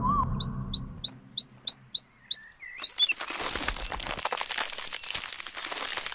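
A small bird chirping: a quick run of about seven short rising chirps, roughly three a second, as soft music fades out. About three seconds in, a dense crackling, rustling noise takes over.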